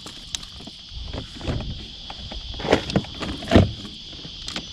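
Scattered knocks and taps of gear being handled on a kayak, with two louder thumps a little past the middle, over a steady high-pitched drone in the background.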